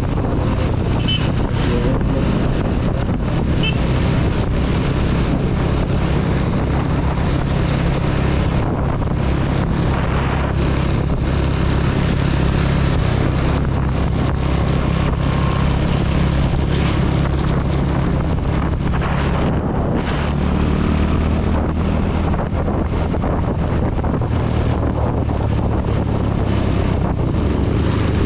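CB 250 motorcycle engine running at a steady cruise, with heavy rain and wind rushing over the camera microphone.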